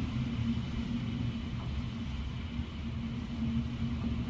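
Hurricane-force wind heard from indoors as a steady low rumble, with a constant low hum underneath.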